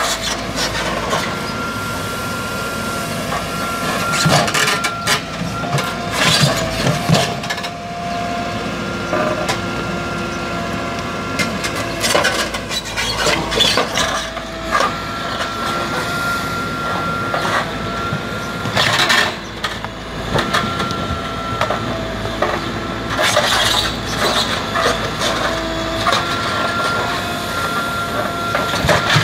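Backhoe loader at work: the engine runs steadily while a hydraulic whine comes and goes every few seconds as the controls are worked. Short bursts of clatter and scraping from the bucket digging break in several times.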